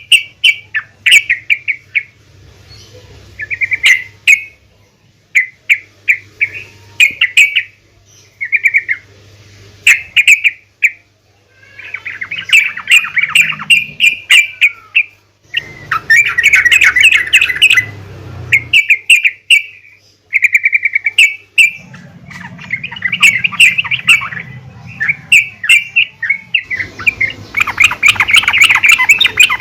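Female yellow-vented bulbul (trucukan) calling: repeated bursts of bubbly chattering notes, some brief and some running two or three seconds, with short pauses between. It is the kind of call used to set other trucukan singing.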